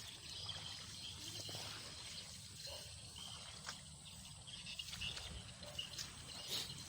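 Faint outdoor ambience in tropical wetland scrub: a steady high insect drone, with a few scattered short crackles and clicks.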